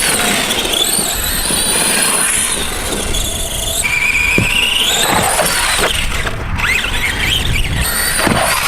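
ARRMA Granite 4x4 RC monster truck's brushed electric motor and gears whining at full throttle on a 2S LiPo, the pitch rising and falling as the truck speeds up and slows, over a low rumble of tyres and wind.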